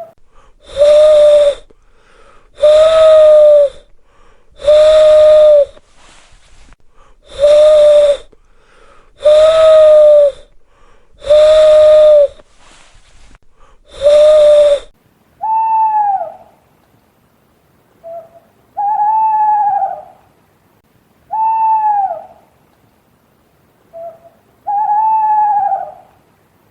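Owl hooting: seven long, level hoots about two seconds apart, then, from about halfway, five shorter and higher hoots that rise and fall in pitch, some with a short faint note just before them.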